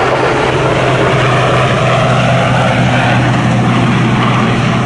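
Westland Sea King ASaC7 helicopter in flight: the steady, even sound of its rotors and turbine engines, with a constant low hum under a broad rushing noise.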